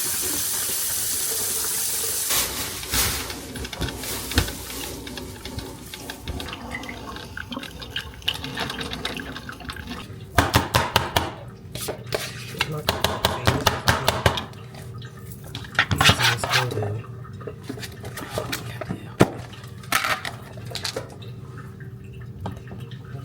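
Kitchen tap running in a steady stream for about two seconds, then shut off. Dishes and cutlery clatter and clink after it, with a few bursts of rapid clinking.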